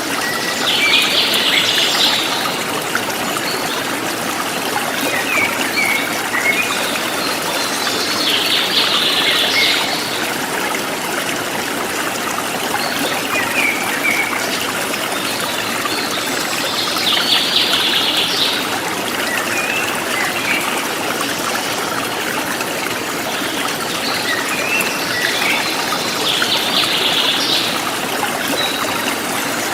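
Steady rushing of a forest stream, with a bird singing a short song phrase four times, about every eight to nine seconds, and smaller chirps in between.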